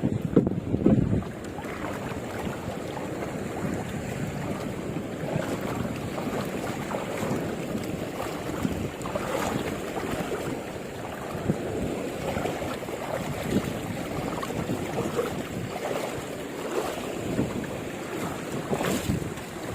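Wind buffeting the microphone over the wash of sea water, with louder gusts about a second in and near the end.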